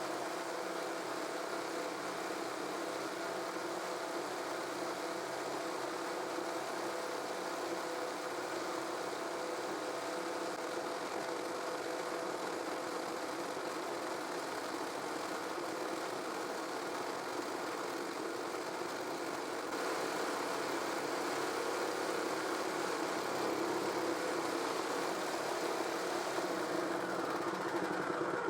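Jigsaw mounted under a jigsaw table, running steadily while it cuts through a wooden workpiece, with a slight rise in level about two-thirds of the way in.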